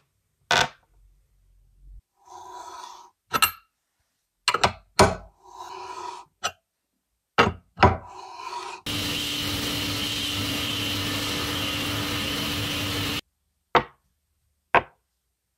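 Workshop tool sounds on metal parts: sharp knocks and clicks with short scraping strokes in between, then a power tool's motor running steadily for about four seconds before cutting off, followed by two more clicks.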